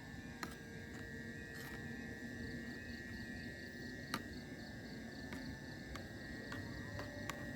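Chorus of night insects such as crickets, with a steady high chirring and a faster pulsing trill above it. A few sharp clicks stand out, one plainly about four seconds in.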